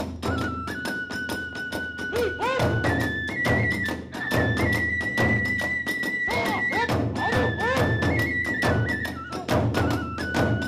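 Kagura hayashi: a transverse bamboo flute holds a high melody that steps between notes, over fast, steady beating of drums and small hand cymbals.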